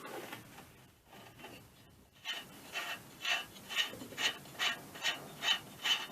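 A nut being undone on an air compressor with a hand tool: after about two seconds, rhythmic rasping strokes start, a little over two a second.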